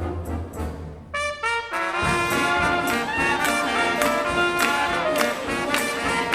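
Junior jazz big band playing. About a second in there is a brief hush, and two short brass notes sound. Then the full band comes back in with horns and drums.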